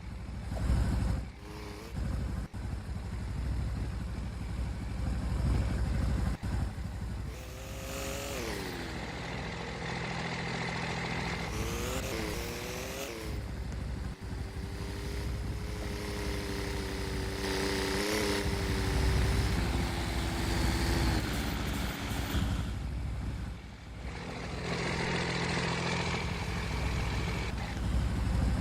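A motor vehicle's engine running, its pitch rising and falling several times under a steady low rumble.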